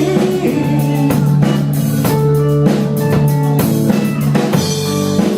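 Live rock band playing an instrumental stretch between sung lines: a drum kit keeps a steady beat under guitar and held low notes.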